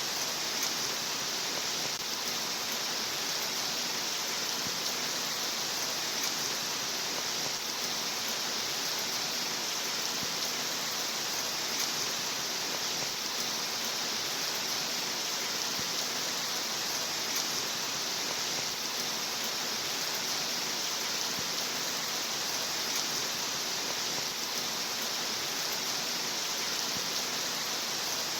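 Steady rain sound: an even, unbroken hiss that does not change in level.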